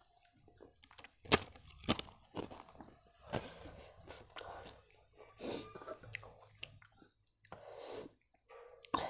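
Close-up chewing with crisp crunching of papad (a thin fried lentil wafer), two sharp crunches about a second and a half in, then more crackly chewing.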